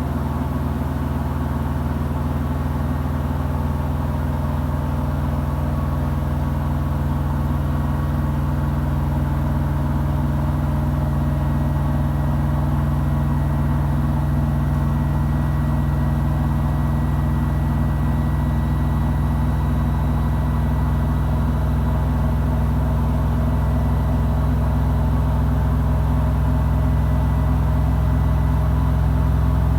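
Samsung WW90J5475FX Digital Inverter washing machine spinning at high speed: a steady hum from the drum and motor with a thin high whine over it, slowly growing louder.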